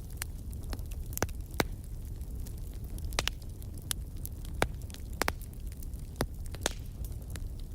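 Outdoor wood fire crackling, with sharp pops every half second or so over a low, steady rumble.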